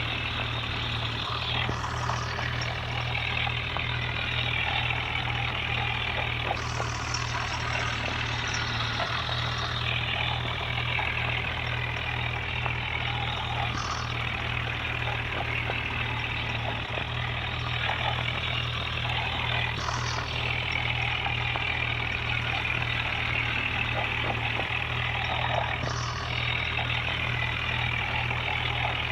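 Tractor engine running steadily, with a steady low pulsing beat.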